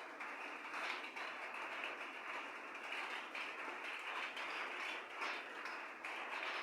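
Steady rain falling: an even hiss with faint patter.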